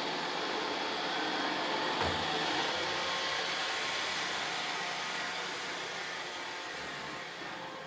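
Roomba robot vacuums running steadily, a motor hum and whine with a steady sweeping hiss, with a brief low knock about two seconds in.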